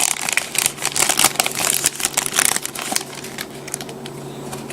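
Wrapper of a trading-card pack crinkling in the hands as the pack is opened: a dense run of crackles that dies down about three seconds in.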